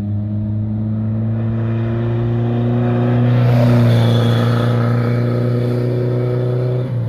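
A heavy vehicle's engine running at steady high revs as it passes close, growing louder toward the middle with tyre and road noise, then its revs dropping near the end.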